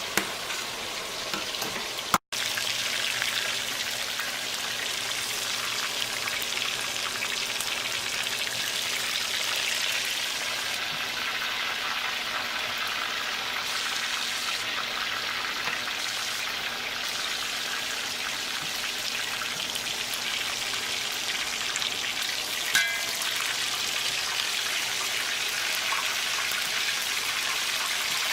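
Egg-white-coated chicken strips frying in a pan of hot oil: a steady sizzle, with a brief gap about two seconds in and a single short knock near the end.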